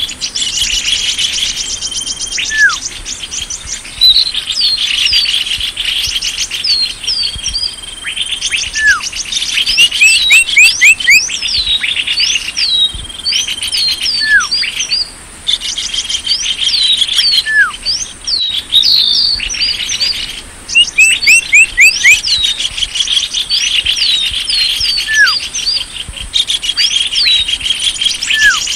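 Small-bird lure call: several small birds calling together in fast, dense chattering trills, with many short high falling whistles and a lower falling note every few seconds, a sound played to draw small birds in.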